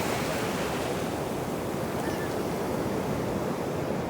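Ocean surf: steady wash of breaking waves, with wind buffeting the microphone.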